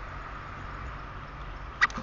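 Steady background hiss over a low rumble, with one sharp tap near the end.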